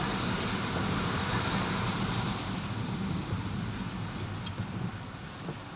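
A vehicle's engine running steadily under a rush of road and wind noise on the microphone, getting somewhat quieter over the last couple of seconds.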